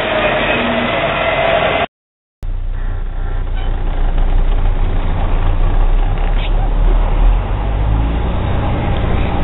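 Log truck driving: diesel engine and road noise with a rising whine for the first two seconds. The sound cuts out briefly, then a steady deep engine rumble follows.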